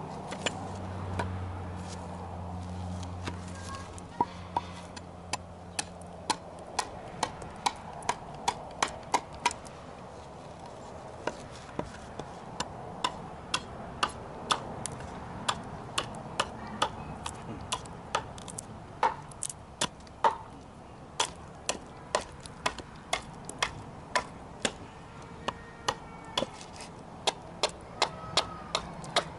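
Sharp, irregular knocks of a carving tool biting into wood, about one or two a second, as charred wood is gouged out of a piece of wooden tableware. A low steady hum runs under the first six seconds.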